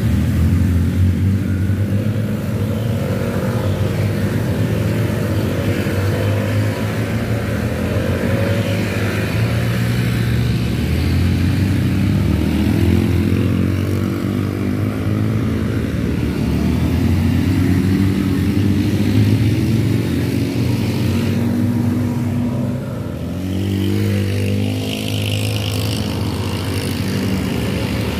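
Motorcycle engine pulling under hard throttle on a steep uphill climb, its pitch drifting up and down. About three-quarters of the way through the sound dips briefly, then the revs climb again.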